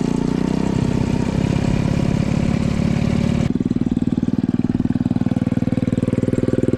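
A mini bike's small engine running steadily, its pitch fairly even. About three and a half seconds in, the hiss above the engine note drops away suddenly.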